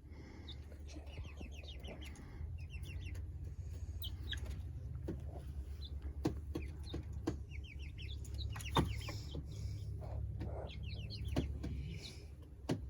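Young chickens peeping and trilling in short quick runs, with scattered sharp clicks and a steady low hum underneath.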